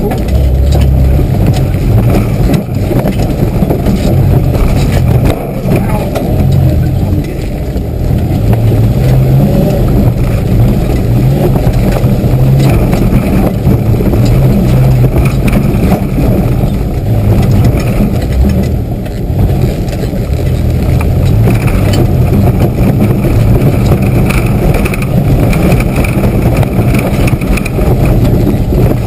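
Old Mitsubishi 4x4's engine heard from inside the cabin, loud, its pitch rising and falling as it is driven hard over a rough, muddy forest track. Frequent knocks and rattles from the body and suspension run through it.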